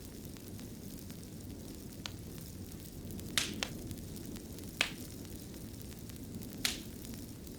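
Wood fire burning in a fireplace, with a steady low rumble and sharp pops and crackles now and then, about five in all.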